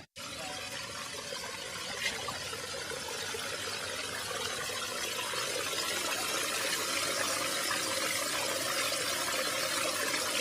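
Running water: a steady rush that grows gradually louder, with one brief tick about two seconds in.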